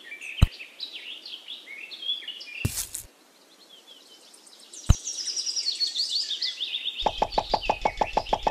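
Birds chirping, with three sharp knocks during the first five seconds. About seven seconds in, music with a quick, even plucked beat starts.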